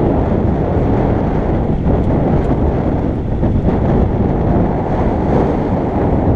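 Wind buffeting the microphone on a moving electric motorbike: a steady, loud rumble of wind and road noise.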